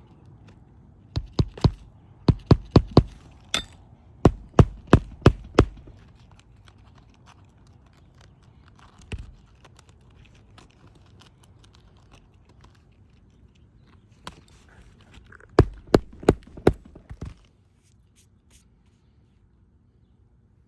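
Nails being driven into roof shingles: quick runs of sharp strikes, about three to five a second. The strikes come in several bursts in the first six seconds and one more burst later, after a long pause.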